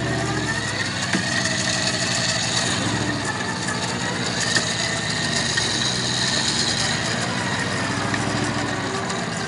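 Truck engine running, its pitch rising and falling, with a high whine that climbs about a second in and drops away near the end.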